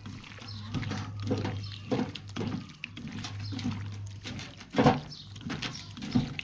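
Hands mixing chunks of raw beef in a wet spice marinade: a run of irregular short squishes and slaps, the loudest a little before five seconds in.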